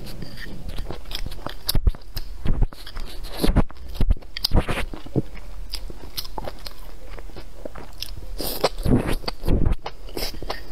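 A person chewing and biting a mouthful of food. Sharp, loud mouth sounds come in two spells, about two to five seconds in and again near nine seconds, with quieter chewing in between.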